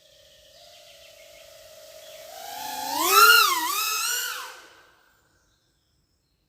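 FPV racing drone's brushless motors whining: a steady hum that builds as the throttle comes up, rises sharply in pitch and wavers up and down twice, then cuts off suddenly about five seconds in.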